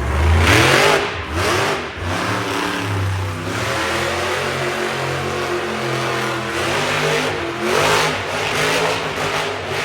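Monster truck engine revving: the pitch rises sharply about half a second in and again near eight seconds, with the engine running steadily in between.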